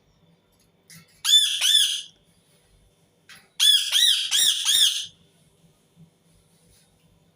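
Indian ringneck parakeet screeching: two quick bursts of shrill repeated calls, about three and then about four, a couple of seconds apart.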